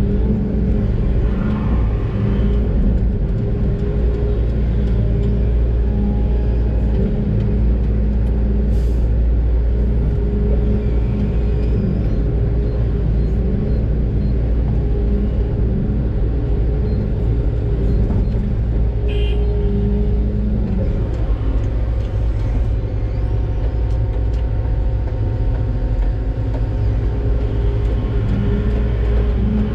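Doosan DX600 excavator's diesel engine running steadily under working load, heard from inside the cab; its note dips briefly about two-thirds of the way through.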